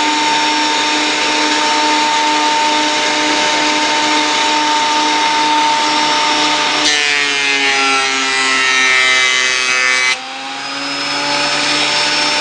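Ryobi 10-inch surface planer running with a steady whine. About seven seconds in, its pitch slowly sags as a board feeds through and loads the cutterhead. About three seconds later the load drops off suddenly and the motor climbs back to free-running speed.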